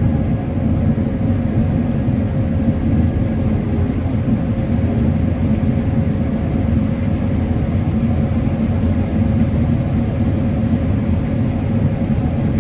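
Combine harvester running steadily while harvesting corn, a constant low-pitched drone with a steady hum over it.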